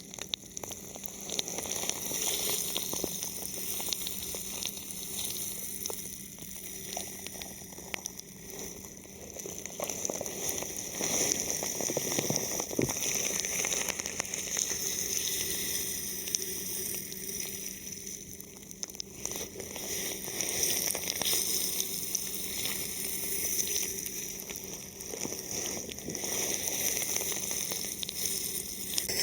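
Thin plastic film covering a microphone, crinkling and crackling as it is touched and rubbed, in dense fine ticks that swell and fade.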